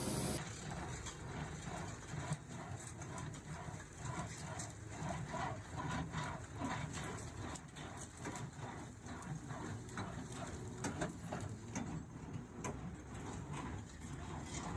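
A run of irregular light knocks, a few a second, over a faint steady background.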